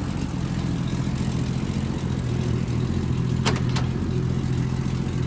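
A 1965 Ford Mustang's inline six-cylinder engine idling steadily. About three and a half seconds in, two sharp clicks close together: the driver's door latch being opened.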